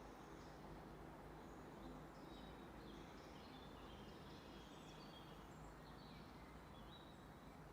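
Faint birdsong in a forest: many short chirps and whistled notes from several birds, scattered throughout, over a steady low background hiss.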